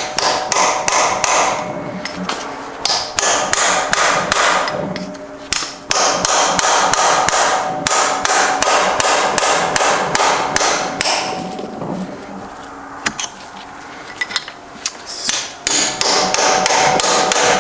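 Hammer blows on metal in quick runs of about five strikes a second, four runs with short pauses between, the metal ringing faintly, as a Subaru STI six-speed transmission is knocked apart; the case is not separating, as if a bolt were still in.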